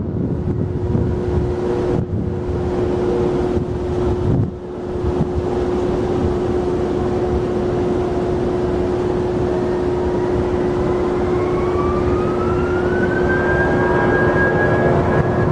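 Jet airliner engines running, with a steady whine under a broad rumble. About ten seconds in, a higher whine climbs in pitch over a few seconds and then holds, as the engines spool up to higher thrust.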